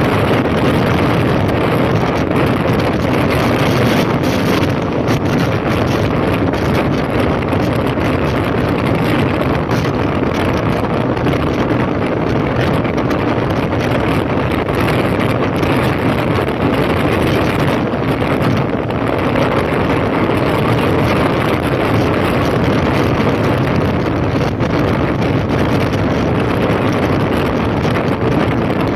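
2005 Honda CB1300's inline-four engine running at speed, with steady wind rushing over the microphone.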